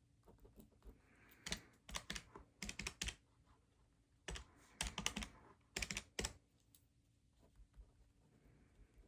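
Keys tapped in two quick runs of clicks, the second starting a little after four seconds in, with a hush between and after.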